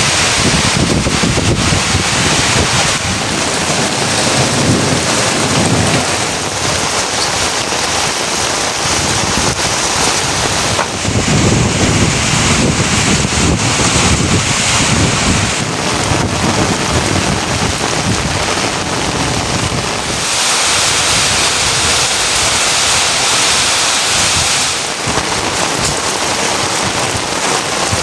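Heavy rain falling steadily, with low rumbles coming and going. The sound shifts abruptly several times.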